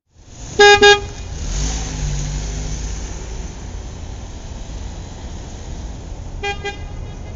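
Scooter sound effect: two short, loud horn beeps, then the motor starting up and running with a steady low rumble, and two quieter beeps near the end.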